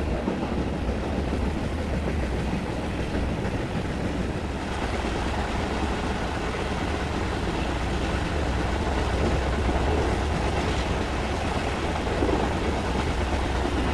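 A moving passenger train running, a steady noise of wheels on the rails heard on board the Vistadome coach.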